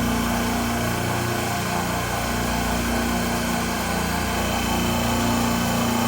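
Steady drone and hum of running refrigeration compressors on a grocery store rack.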